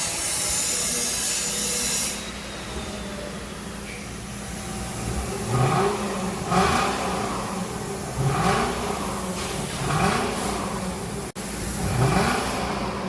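Lexus LS430's 3UZ-FE V8 idling and then revved in about five short blips, each a quick rise in pitch, through an exhaust with the third catalytic converter and both resonators removed. A loud hiss fills the first two seconds.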